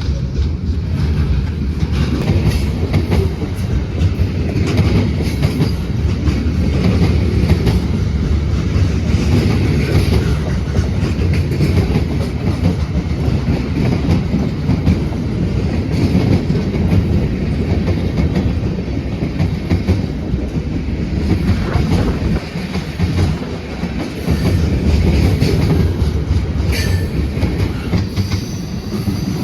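BNSF freight train's cars rolling past, a steady rumble of steel wheels on rail with clickety-clack over the rail joints, dipping briefly a little after two-thirds of the way in. A sharp clank comes near the end.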